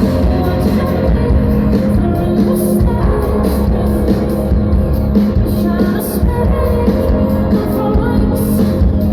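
Rock band playing a song loudly and steadily, with singing over it.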